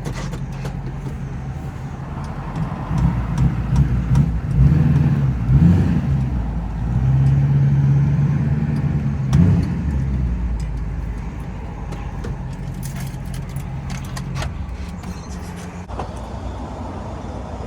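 A large vehicle engine running, likely a truck's, its revs rising and falling a few times in the first half, then settling to a steady run.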